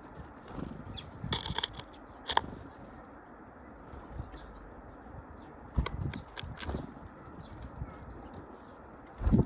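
Small birds' wings fluttering in several short bursts as they land and take off at a feeder, the loudest near the end, with a few faint chirps.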